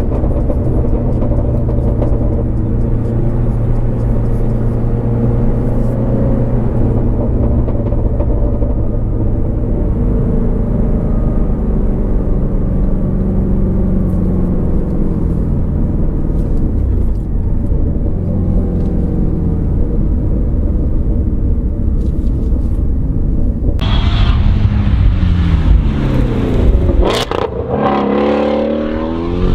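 2019 Shelby GT350R's 5.2-litre flat-plane-crank V8 running steadily at a cruise. About 24 seconds in it gets louder and harsher: the revs fall away, there is one sharp crack, then the revs climb again.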